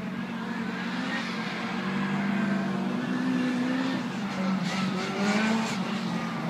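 Classic Mini's four-cylinder engine revving up and down as the car is driven hard through a tight cone course, the revs changing every second or two.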